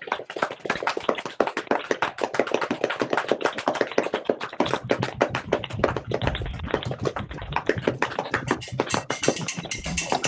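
Many people's body percussion imitating a rainstorm: dense, rapid overlapping claps and slaps on hands and thighs, with a few heavier low thuds near the middle and end, mixed together from several unmuted microphones.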